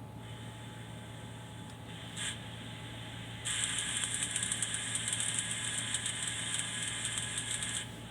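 A machine running: a steady low hum, joined at about three and a half seconds by a louder, fluttering high whirr that stops just before the end.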